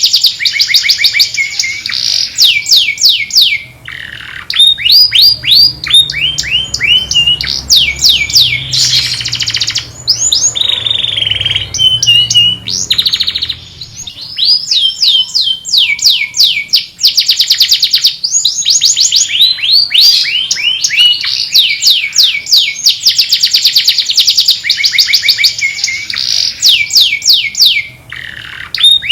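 A canary singing: high, rapid trills of quickly repeated notes, one phrase after another, with short breaks between phrases. A faint low rumble sits under the song for a few seconds in the middle.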